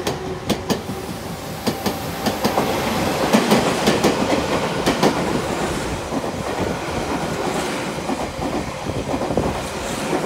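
Meitetsu electric trains passing through the station, wheels clacking over the rail joints. The rumble builds to its loudest about three to five seconds in as a train runs past at speed, then eases off near the end.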